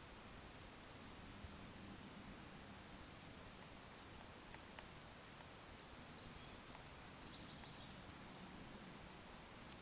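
Faint high-pitched bird chirps and short trills, a few down-slurred trills about six and seven seconds in, over a soft outdoor background hiss.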